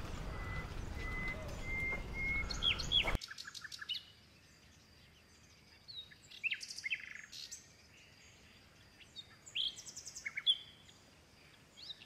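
Birds chirping in short, high calls, scattered in small clusters. For about the first three seconds a steady outdoor noise and a thin held whistle lie under them, then cut off suddenly, leaving only the chirps.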